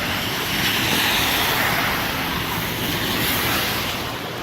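Steady rain falling, a continuous hiss with no break.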